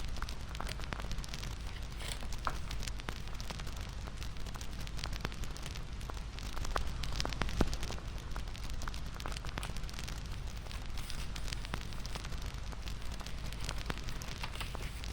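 Wood fire crackling: a steady hiss with frequent small pops and snaps.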